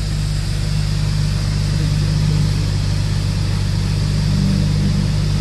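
A car engine idling as a steady low hum, heard from inside the cabin, over a steady hiss from the automatic car wash spraying in the bay ahead.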